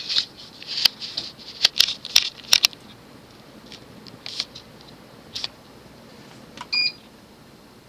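A run of sharp clicks and short rustling noises, thinning out after the first few seconds. Near the end comes one short electronic beep from the Nutone Select-Touch ceiling fan's receiver, the fan acknowledging a command from its wall control.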